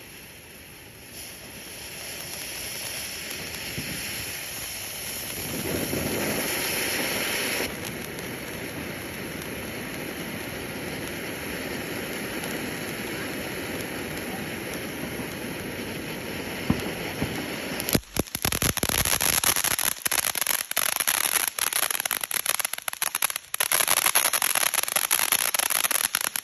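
Winda 'Alien Abduction' ground fountain firework spraying with a steady hiss that grows louder over the first several seconds. About two-thirds of the way through it turns to dense, rapid crackling.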